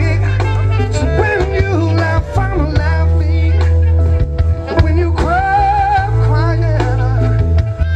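Band music with a male lead vocal over a heavy, steady bass line; the singer holds one long note with vibrato about five seconds in.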